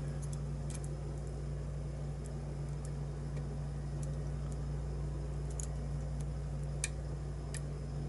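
Faint, irregular small clicks of a lock pick and tension wrench working the pins of a challenge lock, over a steady low hum.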